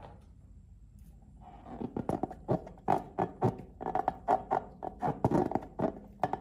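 Slime being squeezed and kneaded by hand: a quick, irregular run of wet squelching clicks, several a second, starting about a second and a half in.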